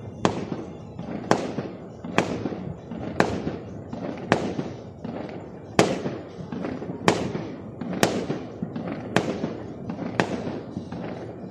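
Fireworks going off in a steady run, about one sharp bang a second, each bang trailing off before the next.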